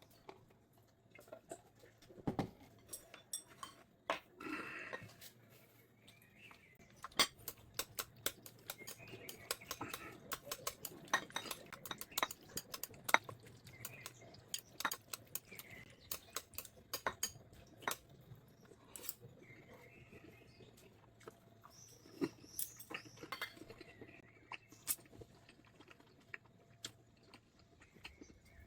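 Close-up eating sounds from a meal of jajangmyeon and tangsuyuk: utensils clicking and tapping against bowls and plates in a string of sharp clicks, with chewing between them.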